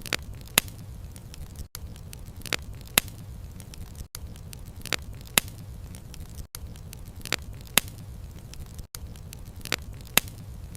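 Wood fire crackling: a steady low rumble of flames with sharp pops of burning wood. The same pair of pops and a brief dropout come back about every two and a half seconds, as in a short repeating loop.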